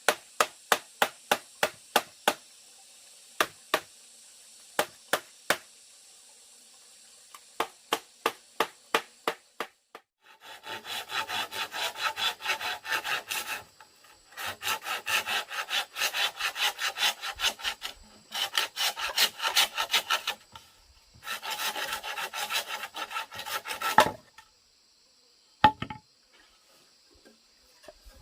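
Sharp knocks on wood, about three a second in short runs. Then a hand saw cuts wood in four bouts of quick back-and-forth strokes, each bout a few seconds long, with one more knock near the end.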